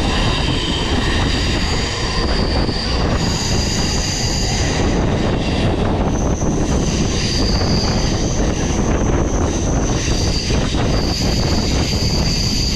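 Inside a moving MMTS electric suburban local train: the steady, loud running rumble of the coach on the rails. Thin high-pitched whining tones come and go above it, strongest from about six seconds in.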